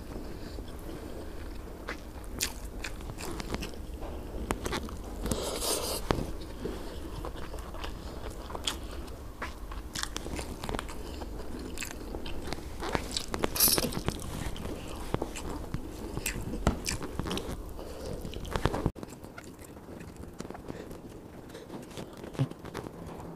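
A person chewing a mouthful of grilled fish and rice eaten by hand, close to a clip-on microphone: wet mouth clicks and smacks throughout, with a couple of louder bursts of noise about five and thirteen seconds in.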